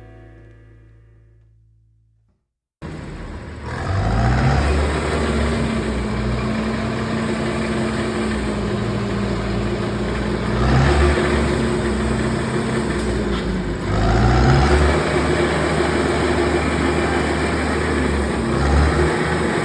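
A closing piece of music dies away, then after a brief silence a heavy engine of road-construction machinery is heard running steadily, its revs rising briefly about four times.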